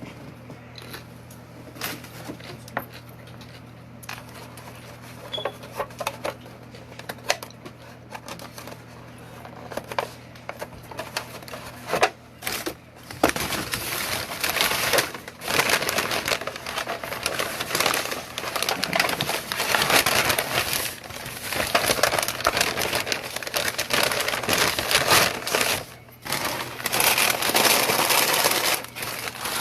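Close-up mukbang eating and handling noises: scattered clicks and taps for the first half, then from about halfway a continuous, louder crackling rustle.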